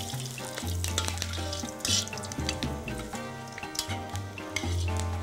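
Ginger slices sizzling in hot oil in a wok, with a metal spatula ticking and scraping against the pan as they are stirred.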